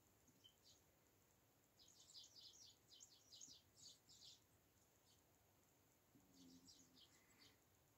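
Small garden birds chirping faintly: a quick run of short, high calls from about two seconds in to past the middle, then a shorter run near the end.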